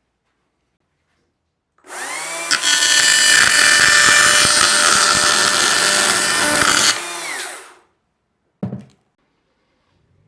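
Stihl MSA 200 battery chainsaw spinning up and running loud under load as its chain cuts through an iPhone SE, then winding down after about five seconds. A single short knock follows near the end.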